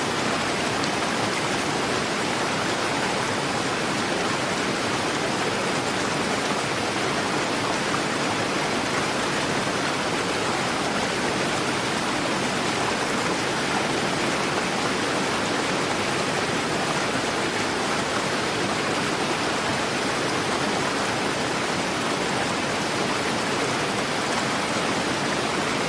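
River water rushing swiftly over rocks, a steady, even rush with no let-up.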